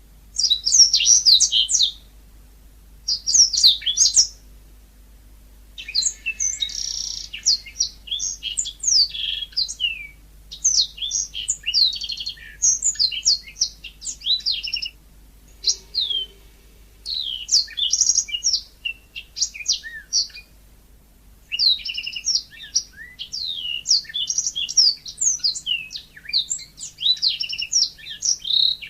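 Yellow-fronted canary (mozambik) singing in rapid, high-pitched twittering phrases. Two short bursts at the start, then long runs of song broken by brief pauses.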